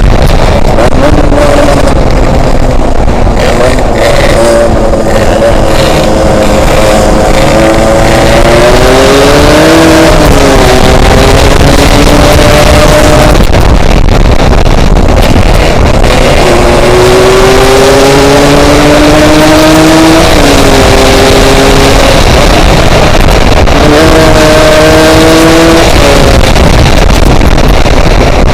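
Yamaha RX-King's two-stroke single-cylinder engine pulling along on the road, its note climbing slowly and then dropping back several times. Heavy wind buffets the microphone.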